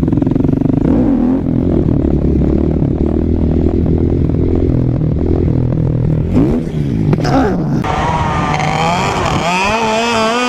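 Motorcycle engine running with a low, steady rumble, its pitch sweeping up and down about six to seven seconds in. Near the end a higher, steadier engine drone takes over.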